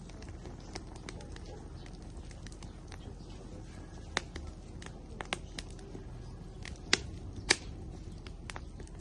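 Wood fire burning in an outdoor grill, crackling with scattered sharp pops over a low steady rumble of the flames; the loudest pops come about four, five, seven and seven and a half seconds in.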